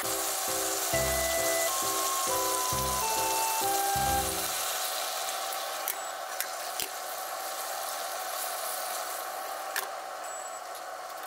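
Stuffed green peppers sizzling in a frying pan, with background music over the first four seconds or so. A few sharp clicks follow about six seconds in as a glass pan lid is set on and adjusted.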